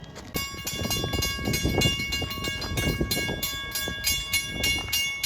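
Long Island Rail Road M7 electric train approaching, with a heavy, uneven rumble. About a third of a second in, a ringing bell starts and repeats quickly and steadily.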